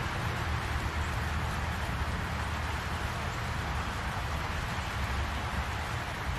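Steady rain falling on trees and grass, an even hiss over a low, steady rumble.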